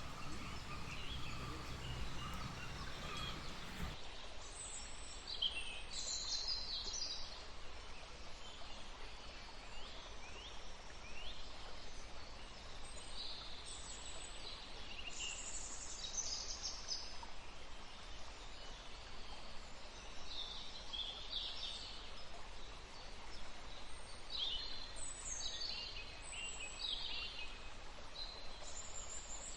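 Birds giving short high chirps and call notes, scattered through, over steady faint background noise.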